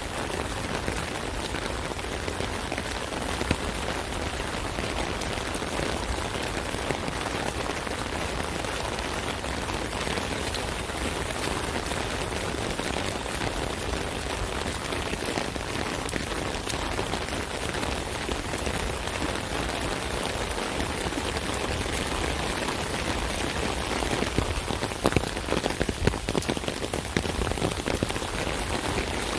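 Steady rain drumming on an umbrella canopy, a dense patter of drops with heavier individual drops ticking out now and then, a little louder about five seconds before the end.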